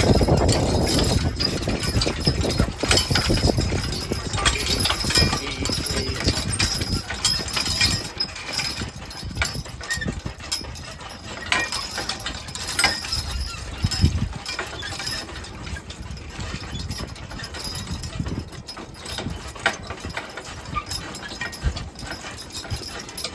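Hooves of a team of draft horses clip-clopping as they walk, a steady run of irregular knocks.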